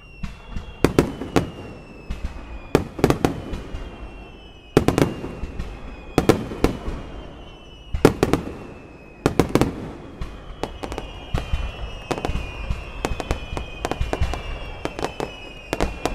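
Aerial fireworks exploding in a rapid, irregular series of sharp bangs, with several louder booms and dense crackling later. Thin whistling tones fall slowly in pitch between the bursts.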